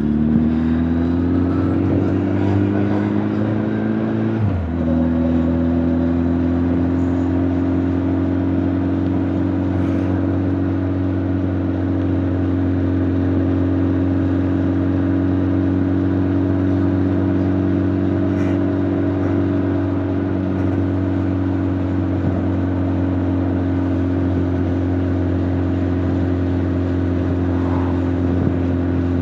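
Honda CB1300 Super Bol d'Or's 1284 cc inline-four engine and exhaust, heard from the rider's back, with little wind noise. The engine accelerates with rising pitch, drops sharply at an upshift about four and a half seconds in, then holds a steady note while cruising.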